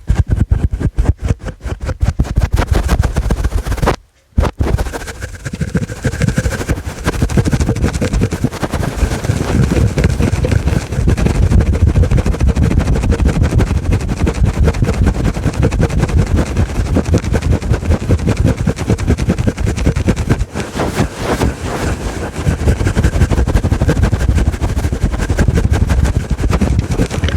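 Fingers scratching fast and hard on a fluffy microphone cover: a loud, dense rustling crackle with a heavy low rumble. It stops briefly about four seconds in, then runs on without a break.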